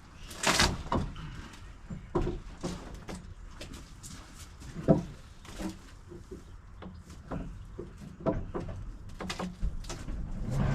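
Irregular knocks, clatters and short creaks of wooden deck boards and framing being pried loose and handled during demolition, the loudest creak about five seconds in.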